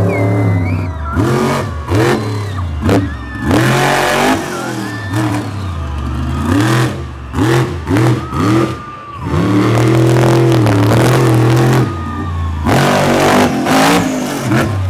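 Monster truck engine revving hard in repeated blips, pitch sweeping up and dropping back, then held high for a couple of seconds about two-thirds of the way through.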